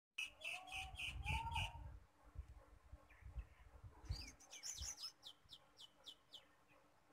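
Small birds chirping: a quick run of about six repeated high chirps, then a series of about seven short falling chirp notes, over a low rumbling noise.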